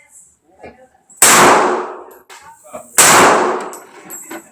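Two handgun shots about two seconds apart, each sharp crack followed by a long ringing decay.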